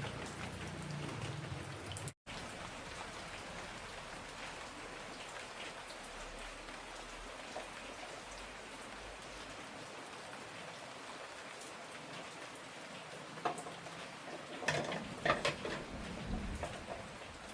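Heavy rain falling steadily in a downpour. The sound cuts out for an instant about two seconds in, and a few louder irregular knocks come near the end.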